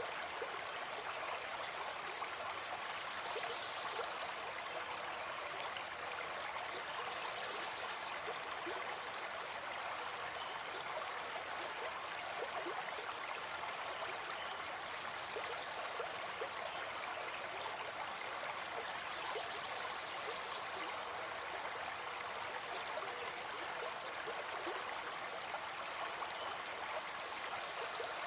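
Gentle forest stream flowing steadily: an even, continuous rush of moving water.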